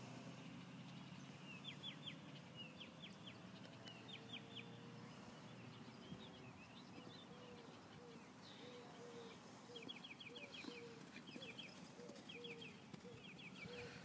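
Faint bird calls: repeated quick runs of short, high chirps, joined about halfway through by a steady series of short low clucking notes about twice a second.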